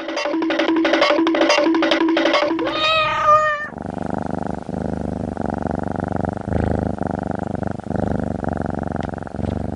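A short tune of quickly repeated notes ending in a brief wavering glide, then a cat purring steadily for the rest of the time.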